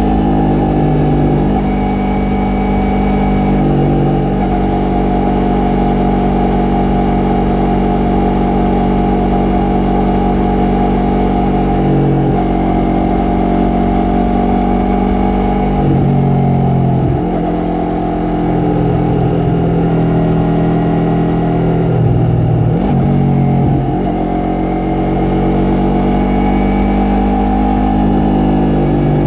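Yamaha MT-03's parallel-twin engine and exhaust running under way, the engine note rising and falling several times with the throttle.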